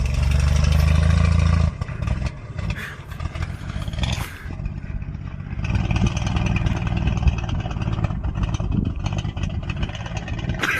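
Pickup truck engine running and revving, with rattling and clatter. It gives a strong low drone for the first couple of seconds, then settles to a rougher rumble with a steady rushing noise.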